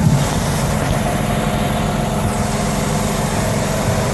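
Tractor-trailer's diesel engine idling steadily, kept running in the cold.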